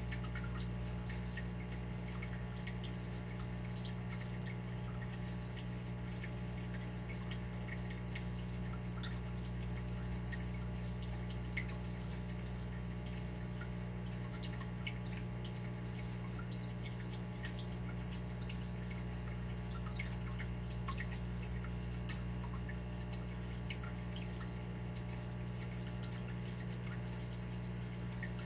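Water dripping and trickling steadily, many small irregular drops, over a steady low hum.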